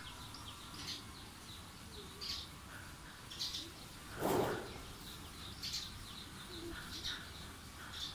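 Small birds chirping in the background, short high calls about once a second, with one brief louder burst of noise about four seconds in.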